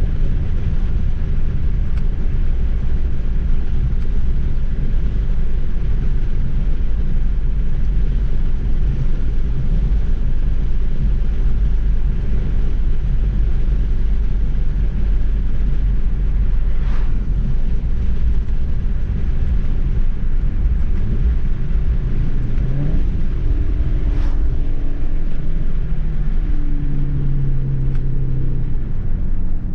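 Volkswagen Golf 7 R with its 2.0-litre turbocharged four-cylinder and Akrapovic exhaust being driven: a steady low engine and road rumble. Two short sharp clicks come in the middle. In the last several seconds the engine note shows as steady tones that step to different pitches.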